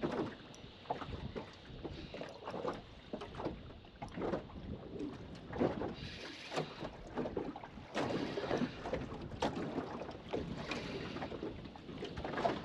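Choppy water slapping and lapping against the hull of a small boat in irregular splashes, with wind gusting over the microphone.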